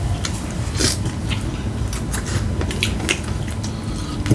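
Close-up chewing and biting of a saucy fried chicken sandwich: irregular wet smacks and clicks of mouth and food, over a steady low hum.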